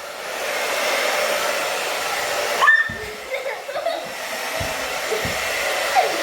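Infiniti hair dryer running: a steady rush of blown air that dips briefly just before three seconds in, with two low thumps in the second half.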